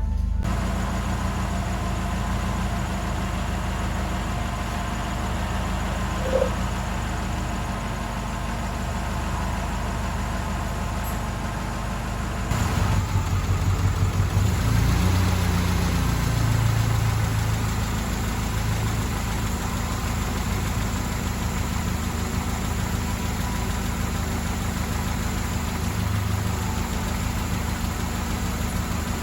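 Mercedes-Benz W124 230E four-cylinder petrol engine idling steadily; about halfway through it gets louder and the revs rise briefly and settle back to idle.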